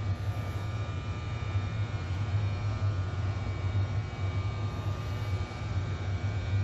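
A stationary Mugunghwa-ho passenger train standing with its engine running: a steady low hum with a few faint, steady high whines above it.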